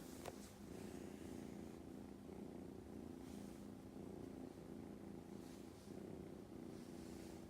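A kitten purring close to the microphone, a steady low rumble that swells and eases with its breathing.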